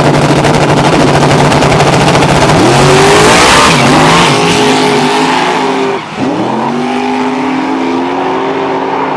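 Drag race car engine running at high revs, then launching with a burst of hiss about three seconds in as it pulls away. About six seconds in the sound dips briefly, then the engine pitch climbs again as it accelerates.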